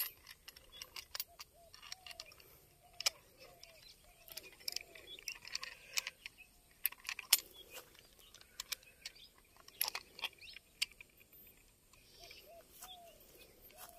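A bird calling over and over in short rising-and-falling notes, with scattered sharp clicks and light metallic clinks from a hand-held hanging fish scale as a snakehead is weighed on it.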